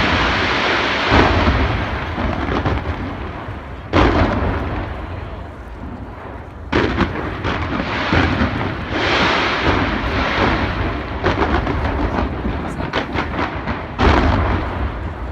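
Aerial fireworks going off in a dense barrage: repeated deep booms, heaviest about 4 s in and again near the end, over continuous crackling and echoing rumble.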